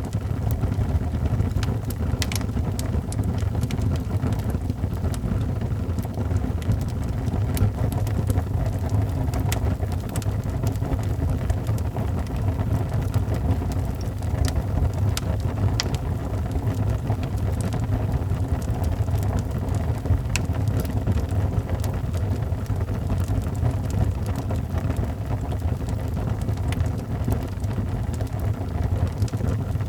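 Wood fire burning in a fireplace: a steady low roar of the flames with scattered sharp crackles and pops from the burning logs.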